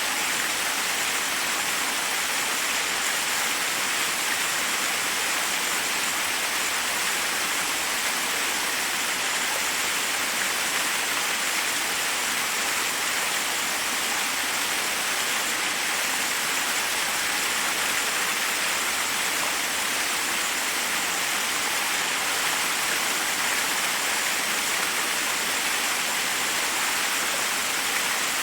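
Forest waterfall: water rushing steadily over rocks, an even hiss-like rush with no change or distinct splashes.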